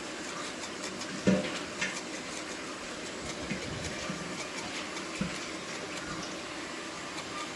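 Kitchen handling sounds over a steady background hiss: one sharp knock a little over a second in, then a few light clicks and taps.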